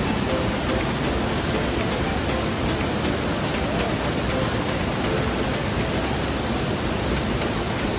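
Waterfall's falling water, a steady, even rush of noise.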